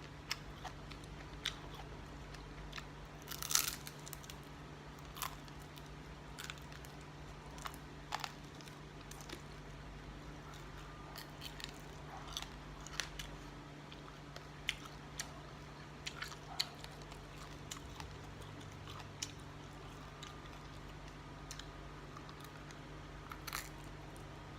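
Someone chewing and biting food close to the microphone: scattered small crunches and mouth clicks over a steady low hum.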